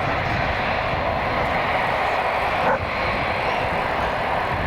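Jet airliner passing overhead, its engines a steady, loud rushing noise with low rumble underneath. A brief bump is heard a little past halfway.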